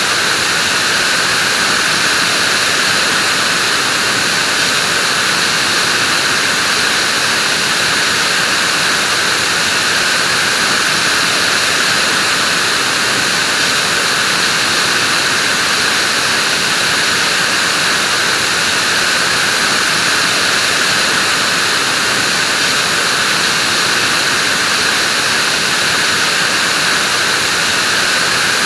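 Vacuum cleaner running steadily: an unbroken airy hiss of motor and airflow, strongest in the upper middle range with little bass, with no change in pitch or loudness.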